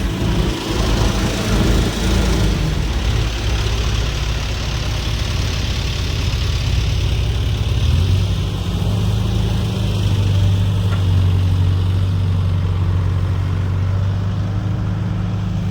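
Diesel tractor engine running. About eight seconds in, its note steadies into an even low hum.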